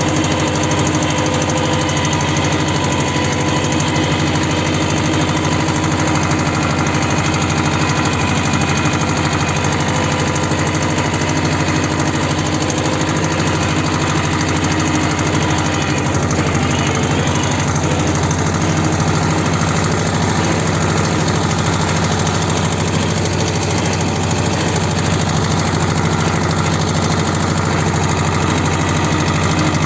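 T-25 tractor's two-cylinder air-cooled diesel engine running at a steady idle, with an even, unchanging note.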